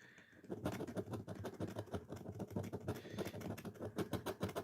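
Coin scraping rapidly across a lottery scratch-off ticket, many quick short strokes rubbing off the latex coating.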